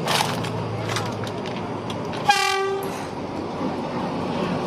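Train horn sounding once, a short steady blast of about half a second, over the steady running noise of the train.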